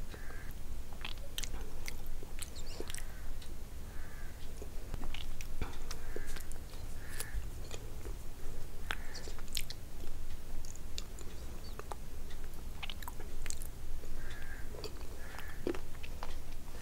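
Mouth sounds of eating a soft, creamy curd (jhuri doi) off a spoon: wet chewing and lip smacks, broken by many small scattered clicks.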